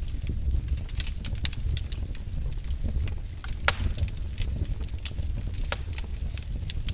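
Wood fire in a fireplace crackling, with frequent irregular sharp pops over a low steady rumble of the flames; one louder pop comes a little past the middle.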